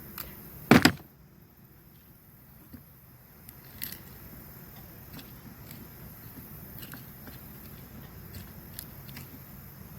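Small plastic and metal tackle being handled: a loud knock or snap about a second in, then scattered faint clicks and taps.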